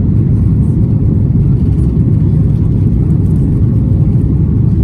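Boeing 737 MAX 8's CFM LEAP-1B jet engines running at high power, heard from inside the cabin as a loud, steady low rumble mixed with airflow noise.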